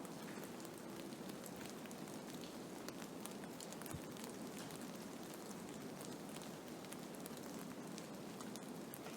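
Storm precipitation pattering steadily on a surface: a continuous hiss full of tiny ticks. A soft low thump about four seconds in.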